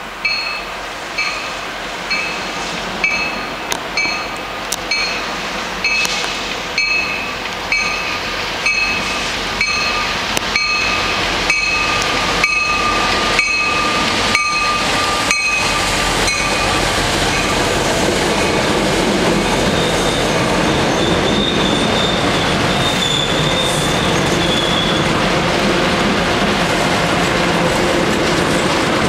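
MBTA commuter train, diesel locomotive and bilevel coaches, approaching and passing. A bell rings steadily about once a second as the train draws near. It gives way to the steady rumble of wheels on rail, with a high wheel squeal for a few seconds in the second half.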